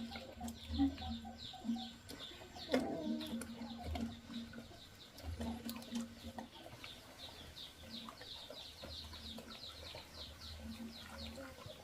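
Farmyard chickens calling, with a rapid string of short, high, falling chirps that thickens through the second half.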